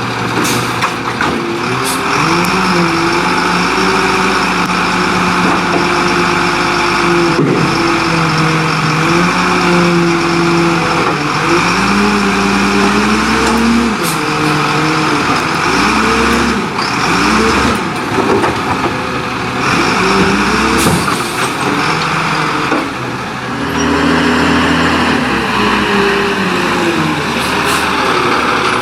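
Leach Curbtender rear-loader garbage truck working, its engine speed rising and falling repeatedly, with a few short, sharp hisses or knocks, likely air brakes, over the engine.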